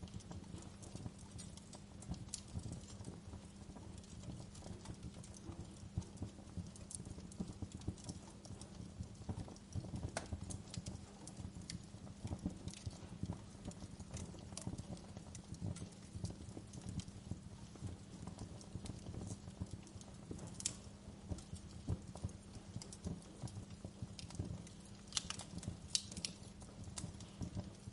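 Wood fire crackling in a fireplace: a steady bed of small, irregular crackles and pops over a low rumble, with a few sharper pops about two-thirds of the way in and near the end.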